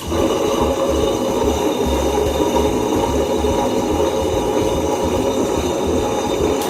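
Amirthaa tilting wet grinder switched on and running, its motor turning the drum against the two grinding stones with a loud, steady mechanical noise. It starts and stops abruptly.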